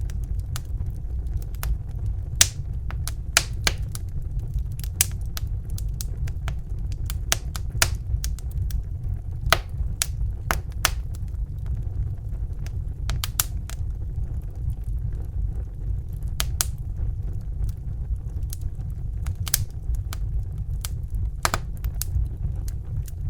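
Crackling fire: irregular sharp pops and snaps, sometimes in quick clusters, over a steady low roar like a Bunsen burner's gas flame.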